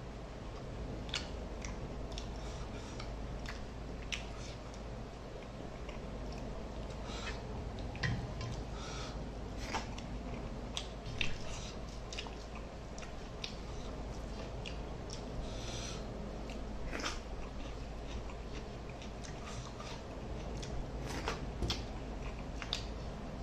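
Close-miked chewing and wet mouth sounds of a man eating fish curry and rice by hand, with many small clicks scattered throughout.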